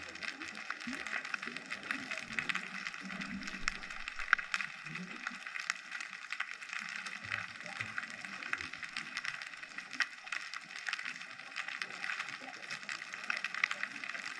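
Underwater ambience picked up by a GoPro in its housing: a dense, steady crackle of countless tiny clicks, with soft low rumbles a few seconds in.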